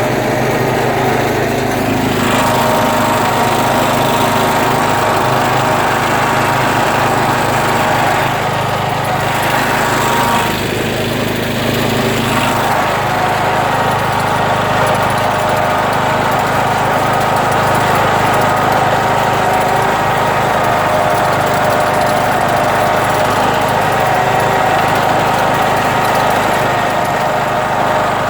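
John Deere tractor engine running steadily as the tractor drives through soft sand, its note shifting slightly about two seconds in and again near the middle.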